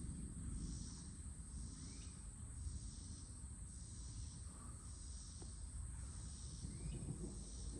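Night insects singing: a steady high-pitched trill with a second insect call pulsing about once a second, over a low rumble of wind.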